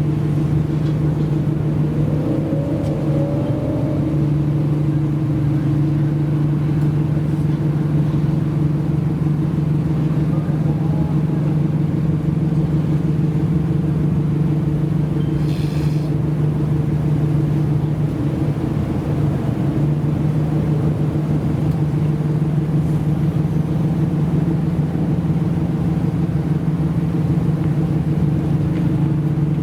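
Modified Japanese car's engine running at a steady, unchanging speed, a constant drone with no revs.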